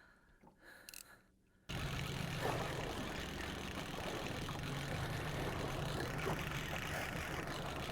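Boat engine idling steadily under wind and water noise, cutting in abruptly about a second and a half in after a near-silent moment.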